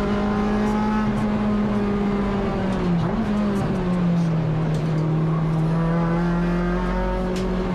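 Honda K24 four-cylinder engine of a Civic EG race car running hard at steady high revs. Its pitch dips briefly about three seconds in, then holds a little lower.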